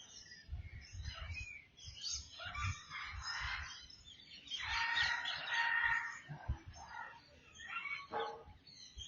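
Several birds calling and chirping, many short overlapping calls, with one louder, longer, harsh call about five seconds in.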